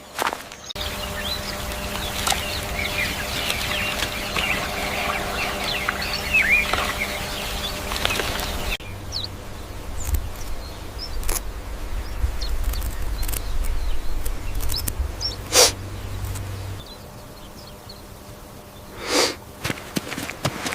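Several short outdoor clips spliced together. The first is full of many small birds chirping over a steady low hum. It cuts suddenly to low rumbling with scattered clicks and a sharp crack, then to a quieter stretch.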